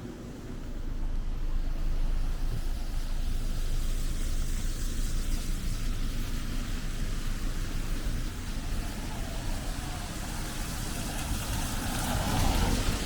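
Road traffic: motor vehicles driving past, with one passing close and louder near the end.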